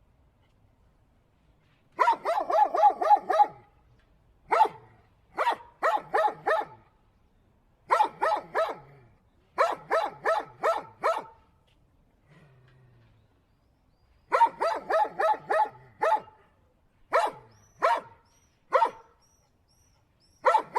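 Dog barking in fast runs of up to about six barks a second, with short pauses between the runs.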